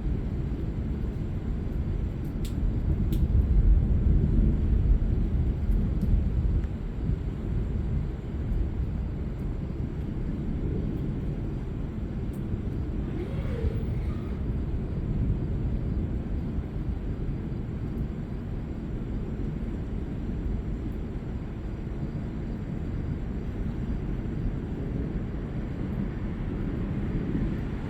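Thunder rolling: a low rumble that swells about three seconds in and dies back after about six seconds, over a steady low rumble of the storm.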